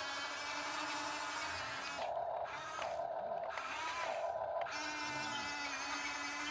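Small electric gear motors of a Huina 1/14-scale RC excavator whirring as it works, with three short stronger bursts of motor whine about two, three and four seconds in.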